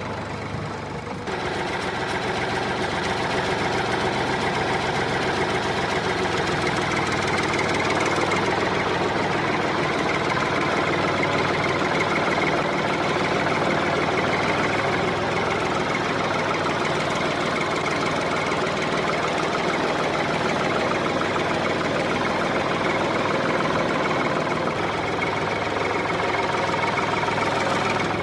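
Mini tractor running: a steady, rapid mechanical engine-like running sound that steps up in level about a second in and then holds even.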